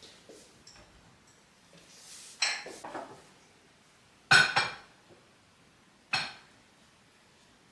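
Dishes clinking as they are handled and set down: three separate knocks with a short ring, the middle one the loudest.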